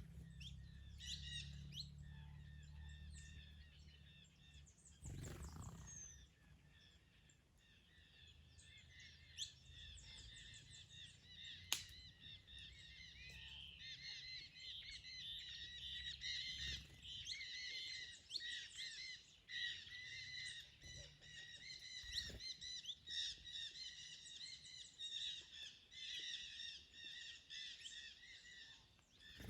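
Several songbirds chirping and singing at once in a steady, overlapping chorus that thickens after the middle. A low rumble of wind is under it in the first few seconds, and there is a single sharp click near the middle.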